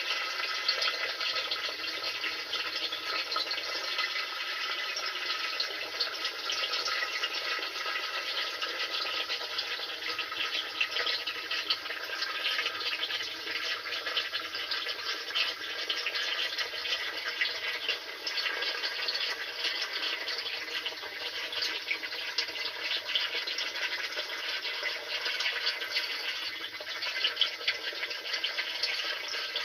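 Steady rush of water inside a washing machine tub during a drum-cleaning cycle with sodium percarbonate.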